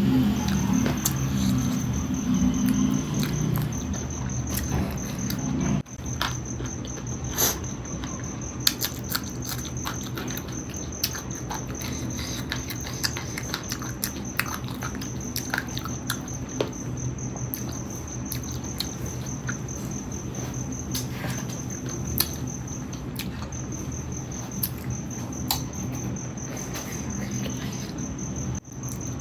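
Close-up eating sounds, with scattered sharp clicks and crunches of chewing chicken feet and wet mouth noises, over a cricket chirping steadily in a fast, even trill. A low drone underneath cuts off about six seconds in.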